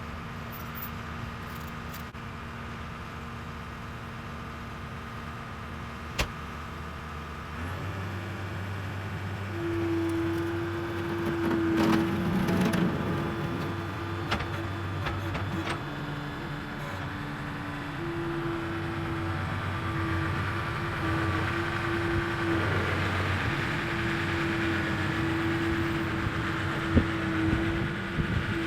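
An engine running steadily; it picks up about a quarter of the way in and its pitch steps up and down a few times after that.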